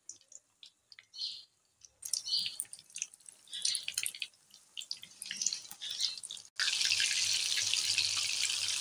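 Marinated chicken pieces deep-frying in hot oil in a wok. Sparse crackles at first grow into busy popping about two seconds in. After a momentary break near the end, the sound comes back as a steady, dense sizzle.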